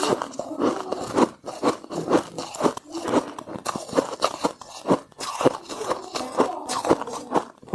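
Ice being bitten and chewed, a fast, irregular run of crunches and cracks.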